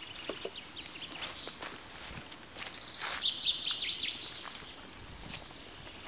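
Songbirds singing: a short run of chirps at the start, then a louder, rapid warbling song from about three to four and a half seconds in. Under it, a few scattered clicks and knocks come from the small twig fire and the log being laid on it.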